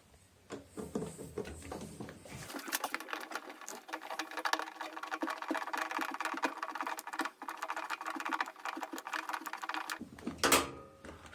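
A screw on a wire clamp of a washing machine being tightened, giving a dense, rapid run of clicks for about seven seconds. The clicking stops at about ten seconds, followed by a louder knock of handling.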